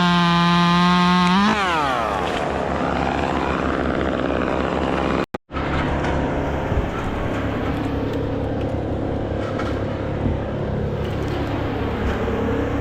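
Chainsaw running at full throttle, released about a second and a half in with a quick rise in pitch. After a brief dropout a little past five seconds, a steady low engine drone continues.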